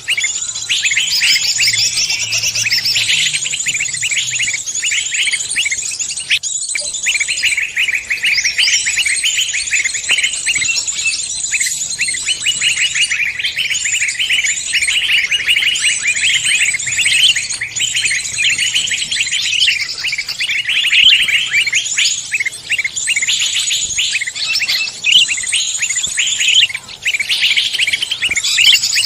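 Dense chorus of many songbirds chirping and trilling rapidly and continuously, layered bird-call recordings used as a lure for songbirds.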